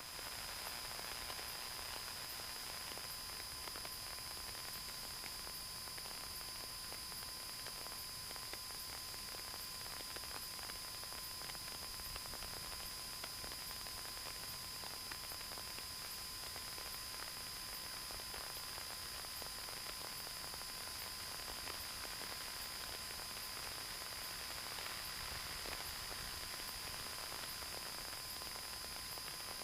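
Faint steady radio hiss on a quiet air traffic control frequency between transmissions, with two thin steady tones under it.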